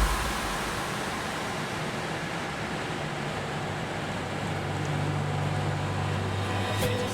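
Airbus A320 cockpit noise: a steady rush of air with a low hum underneath.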